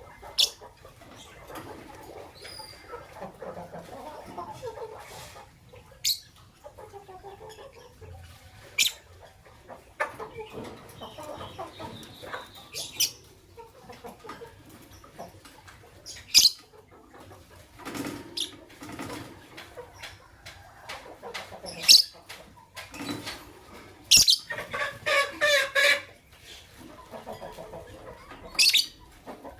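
Fischer's lovebirds chirping: sharp, high-pitched single chirps every few seconds, with softer chattering between them. About three quarters of the way through comes a quick run of rapid chirps.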